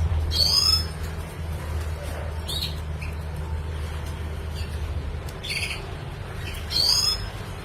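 Red siskin giving short, high, twittering calls: four brief bursts a second or more apart, over a steady low hum.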